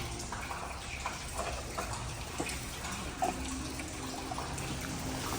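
Steady trickle of running water, with a few light clicks and clinks scattered through it.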